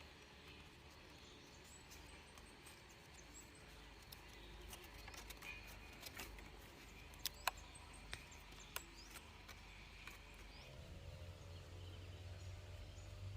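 Faint outdoor background noise with a few sharp clicks in the middle and faint high chirps; a low hum builds up near the end.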